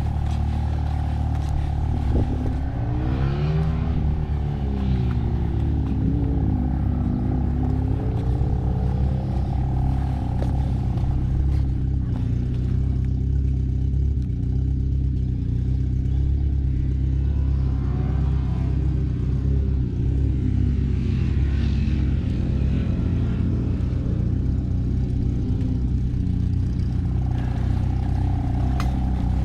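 Pit bike engine running, its pitch rising and falling twice as the revs change, over a steady low drone.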